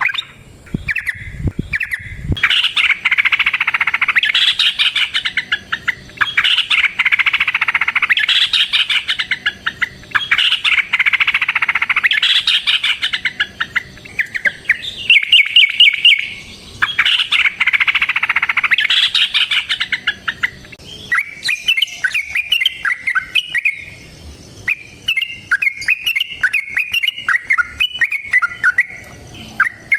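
Yellow-vented bulbul (trucukan) singing long, rapid chattering trills in repeated bursts of two to three seconds. From about two-thirds of the way in, the song turns into looser, chirpier phrases.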